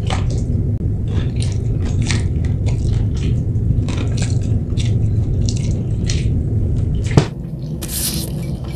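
Close-up wet chewing and mouth smacks of someone eating rice and noodles, in many short clicks over a steady low hum. About seven seconds in there is a single sharp knock, after which the hum drops.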